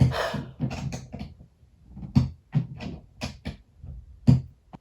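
A series of irregular dull knocks and bumps, about a dozen in all, loudest about two seconds in and again near the end.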